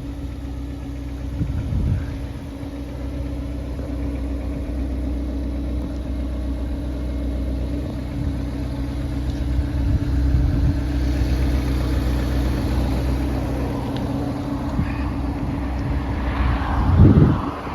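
Ferrari Portofino's twin-turbo V8 idling steadily, with a brief louder swell near the end.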